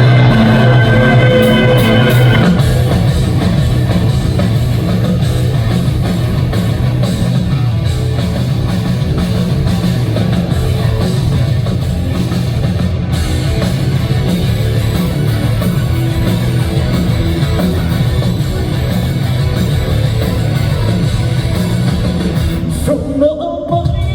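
Live rock band playing loud, hard-driving rock with distorted electric guitars, bass and drum kit, recorded from the audience through the venue's PA. The band cuts to a brief break near the end before coming back in.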